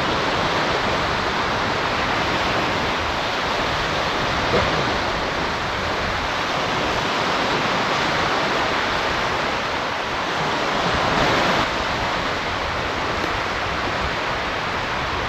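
Steady rushing of surf breaking on the beach, swelling a little louder for a moment about eleven seconds in.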